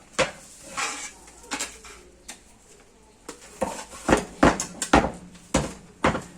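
Metal parts of a sugarcane press clinking and knocking together as they are handled: a dozen or so sharp, ringing clinks, coming faster in the second half.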